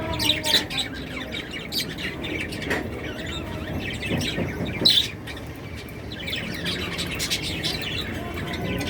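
Lovebirds chirping: many short, high calls overlapping without a break, the loudest one about five seconds in.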